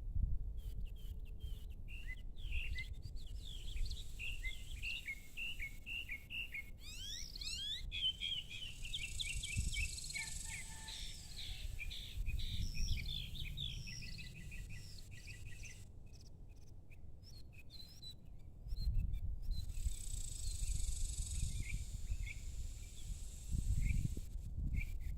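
Small birds chirping and twittering in quick runs of short notes, over a low rumble that swells a few times.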